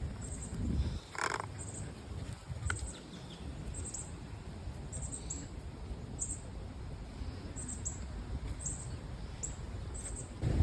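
Birds chirping: short, high chirps repeating about once a second, with one louder call about a second in.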